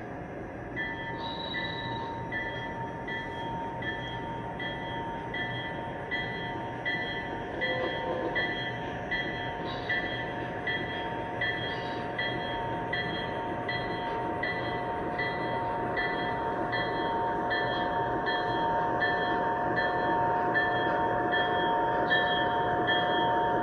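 Lionel Legacy ES4400AC O scale model diesel locomotive running on the track, a running noise with a steady whine under it. A bell-like ring repeats evenly about three times every two seconds, and the whole grows slowly louder.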